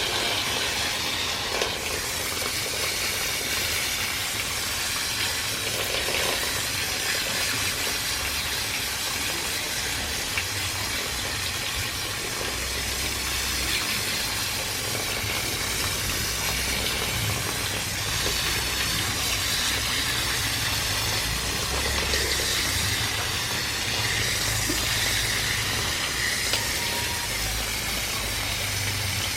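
Steady hiss of a water jet spraying a split-type air conditioner unit to wash the dirt out, with a low hum underneath.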